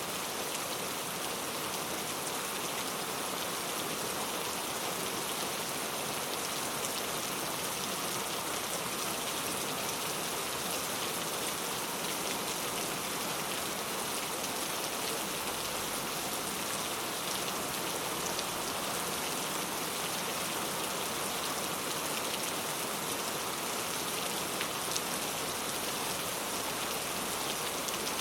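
Steady rain falling, with fine drops pattering on a surface, even and unbroken.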